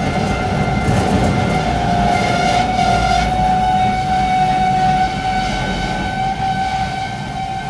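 Rhaetian Railway Vereina car shuttle train running, heard from inside a car on its open car-carrier wagon: a steady rumble of wheels on track, with a steady high-pitched whine coming in about two seconds in and holding.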